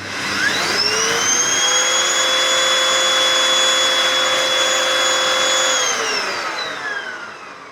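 Bagged canister vacuum cleaner with an air-driven turbo brush, running with an overfull dust bag. It is switched on and its whine climbs to a steady high pitch within about a second, runs evenly for about five seconds, then is switched off and winds down with a falling whine near the end.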